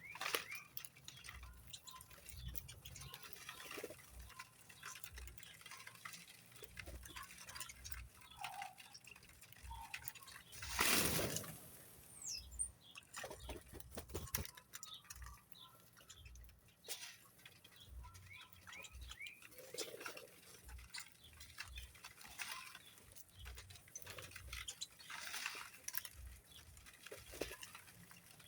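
Kept birds moving about and feeding: light scattered tapping and scratching with faint short chirps, and a brief louder rush of noise about eleven seconds in.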